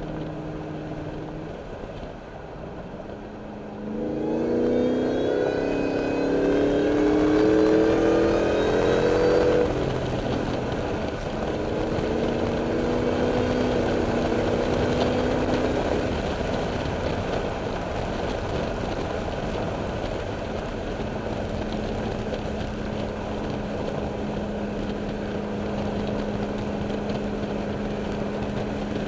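Supercharged 5.4-litre V8 of a Ford Lightning pickup with a stock, unported Eaton supercharger. About four seconds in it goes to full throttle in second gear and revs up hard for about six seconds. It then drops back, pulls up again more gently, and settles to a steady drone.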